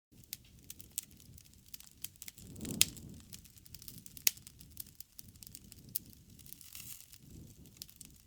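Crackling wood fire: irregular sharp pops and snaps over a low rumble of flame, with the loudest pops a little under 3 seconds in and again after about 4 seconds.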